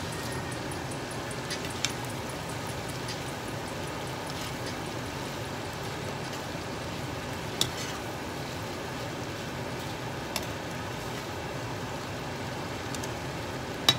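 Beef strips, bell peppers and onion sizzling steadily in a hot skillet as they are stir-fried, with a few sharp clicks of the spoon against the pan.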